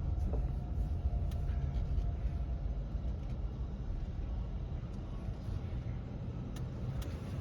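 Steady low rumble of a car at a car wash, easing off slightly, with a few faint clicks.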